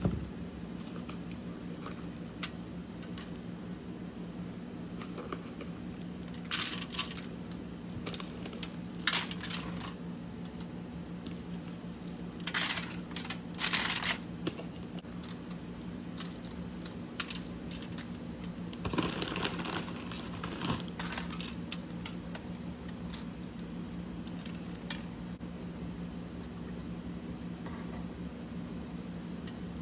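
Eating on a mukbang: brief crunching and crinkling bursts with light clicks, in clusters, over a steady low hum.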